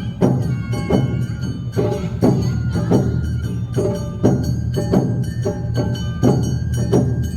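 Awa Odori festival band (narimono) playing the dance's rhythm: drums and a ringing kane gong strike steadily about two to three times a second, under a sustained melody.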